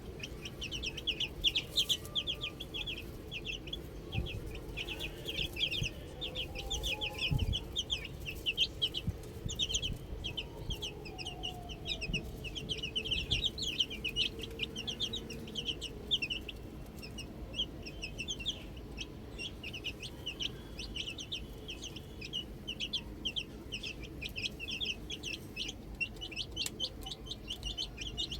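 A group of baby chicks peeping continuously, many short high-pitched peeps overlapping in quick succession.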